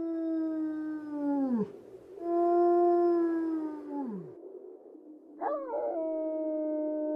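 Canine howling: three long, steady howls, each dropping in pitch at its end. The third begins with a wavering rise about five and a half seconds in.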